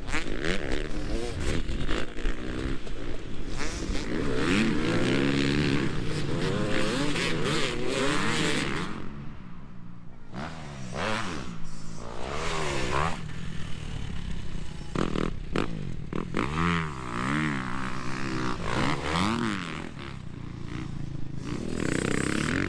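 Motocross dirt bike engines revving on the track, their pitch climbing and dropping again and again as they accelerate and back off, with several bikes overlapping at times.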